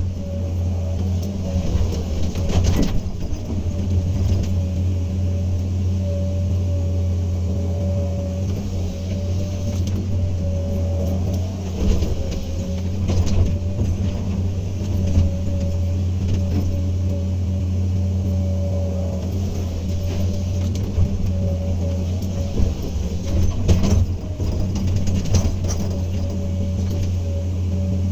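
Hydraulic excavator working: its diesel engine runs with a steady low drone and a constant whine above it, broken by a few short knocks and clanks.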